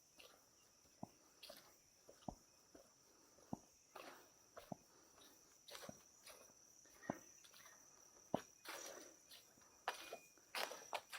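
Footsteps crunching irregularly on the forest floor's leaf litter and twigs, over a steady high-pitched insect drone.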